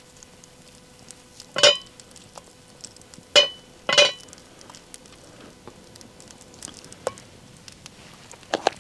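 A utensil clinking against a dish, as in mixing or handling cookware: three sharp ringing clinks in the first half, a couple of lighter ones near the end, and small ticks between.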